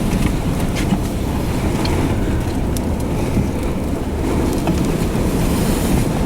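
Strong wind near a tornado rushing in a deep, steady rumble, with scattered ticks of blowing sand and grit striking.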